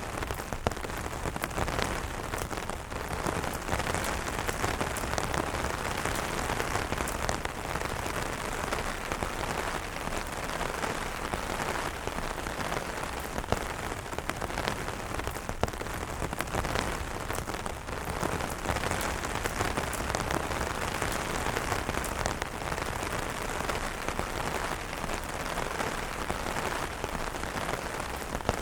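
Steady rain falling on umbrellas: an even hiss with many separate, sharp drop taps.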